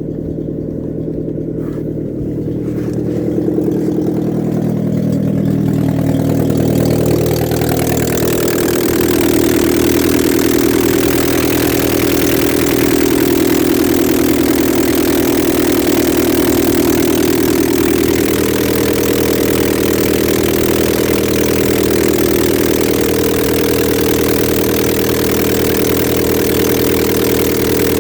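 VW Golf 4's 1.4-litre BCA four-cylinder petrol engine running, its pitch and loudness rising a few seconds in, then holding steady.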